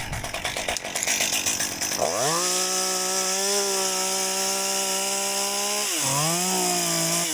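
Chainsaw running at low revs for about two seconds, then opened up to full throttle and held steady for about four seconds. It drops briefly about six seconds in, revs again at a slightly lower pitch, and is released right at the end.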